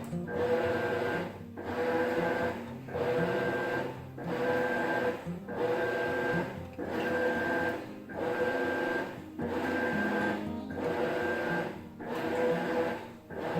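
Maytag top-load washer's agitator running through its wash strokes: a steady mechanical whine repeating about once every 1.3 seconds, each stroke broken by a brief pause as the agitator reverses.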